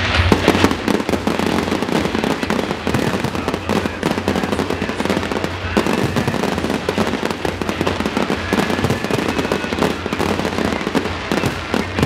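Fireworks going off in a dense, continuous run of rapid bangs and crackles.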